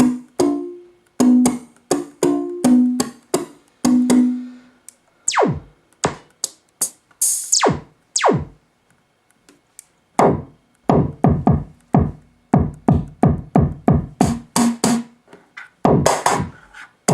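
KORG Kaossilator synthesizer playing a bass sound: short separate notes at first, then several quick downward pitch sweeps, then a fast run of short stabbed notes that each drop in pitch.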